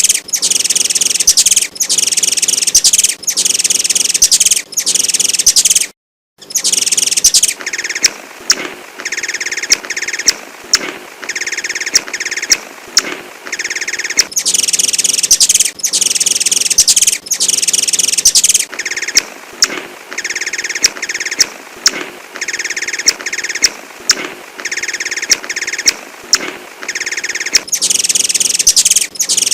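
A kolibri (the Indonesian bird-keepers' name for a sunbird) singing high, rapid chirping phrases in repeated bursts of about a second each, with sharp ticks between phrases. The sound cuts out completely for a moment about six seconds in.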